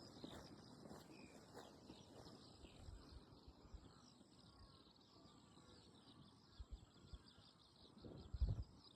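Faint open-air quiet with small birds chirping in the distance, and a few low bumps near the end.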